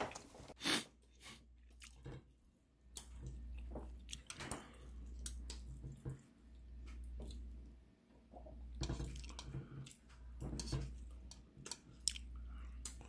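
Close-miked chewing and mouth sounds of someone eating soft braised dried pollack, with scattered sharp clicks.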